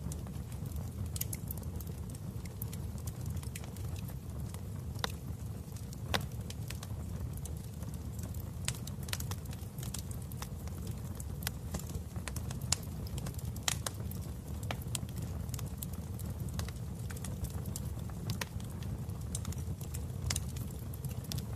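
Wood fire crackling in a fireplace: a steady low rumble with irregular sharp pops and snaps scattered throughout.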